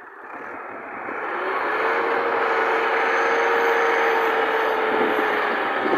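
Tractor engine running and growing louder over the first two seconds, then holding steady, with a steady whine over the engine noise.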